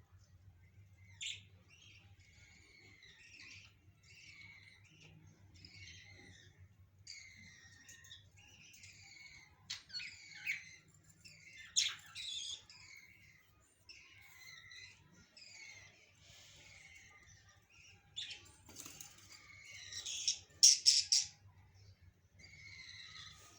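A flock of caged budgerigars chirping and chattering continuously, in quick repeated calls that glide up and down in pitch. A few louder, sharper calls stand out about halfway through and again near the end.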